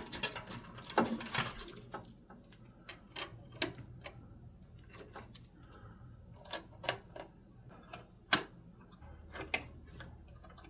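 Irregular light clicks and taps of tools and small parts being handled on the water heater, with a few sharper knocks among them.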